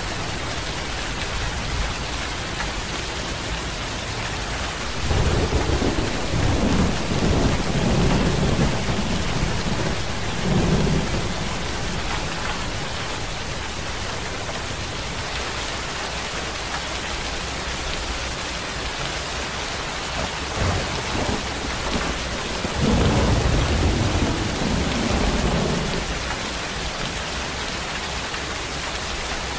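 Steady rain falling, with two long, low rolls of thunder: one starting about five seconds in and lasting several seconds, another a little after twenty seconds in.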